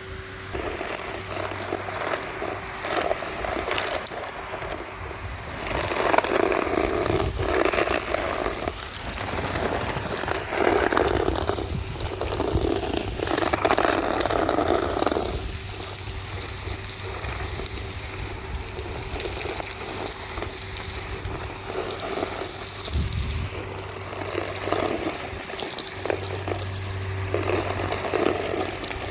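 Henry HVR200-22 vacuum cleaner running with a steady motor hum, its hose crunching and rattling irregularly as it sucks up grit and debris from the street surface, with the loudest stretches near the middle.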